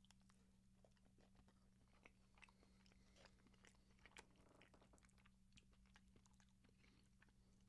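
Faint chewing of a mouthful of moussaka, with soft mouth clicks and light taps as a plastic fork works in a foam takeout container, over a steady low hum.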